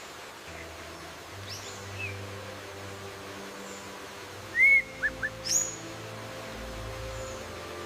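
Scattered bird calls over soft, sustained background music: the loudest an arched whistled note about four and a half seconds in, quickly followed by two short notes and a high sweeping call.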